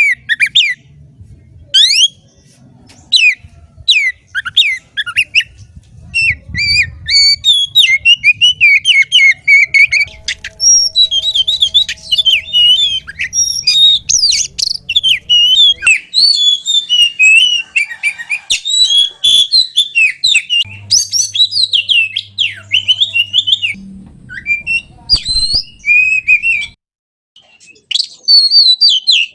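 Oriental magpie-robin (kacer) singing a loud, varied song of quick whistled phrases that slide up and down. It begins as separate sharp whistles, becomes a dense unbroken run, and breaks off briefly near the end. A faint low hum sits under parts of it.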